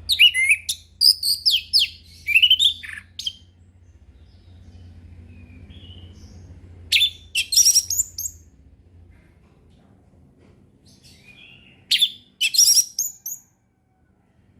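Orange-headed thrush singing in the 'ngeplong' style: three bursts of quick, high whistled phrases, one at the start, one about seven seconds in and one about twelve seconds in. A faint steady low hum sits underneath.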